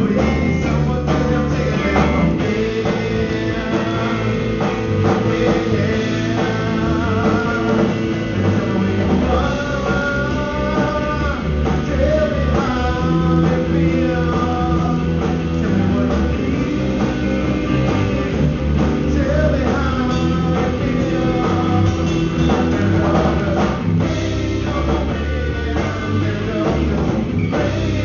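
A live rock band playing a song, with a singer over guitar and drums.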